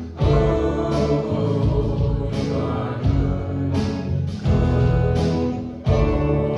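Live worship band and singers performing a contemporary Christian worship song, with sung vocals over instruments.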